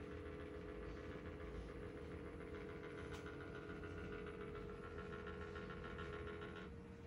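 IRIS Ohyama PCF-SDC15T circulator fan running with the abnormal noise from its horizontal swivel mechanism: a steady multi-tone mechanical whine over a hum. Near the end the higher whine stops suddenly, leaving only a steady hum.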